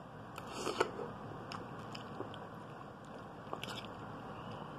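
Close-up mouth sounds of someone biting and chewing a forkful of soft egg noodles, with a cluster of sharper clicks a little under a second in and a few faint ticks later.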